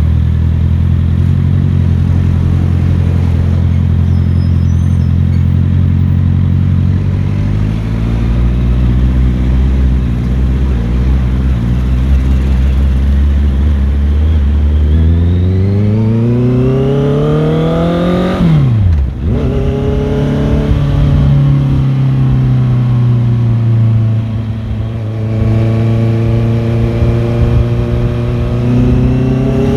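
Motorcycle engine running under way, a steady note at first; past halfway the engine note climbs for a few seconds, then drops sharply and settles again at a steadier pitch.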